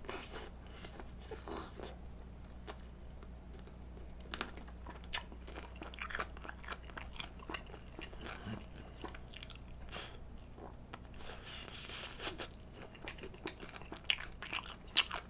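A person biting and chewing glazed fried chicken off the bone close to a microphone: many irregular short crunches and wet chewing clicks.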